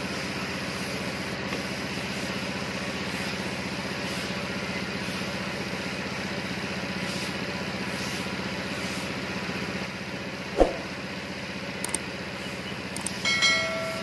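A motor running with a steady low hum. A sharp knock comes about ten and a half seconds in, then a few light clicks and a brief high squeal near the end.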